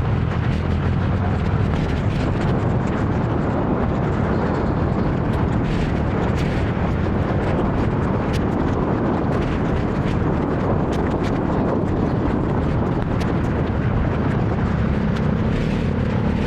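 Steady wind rumble on the microphone of a moving motor scooter, mixed with the scooter's engine and surrounding traffic, with many short sharp ticks scattered throughout.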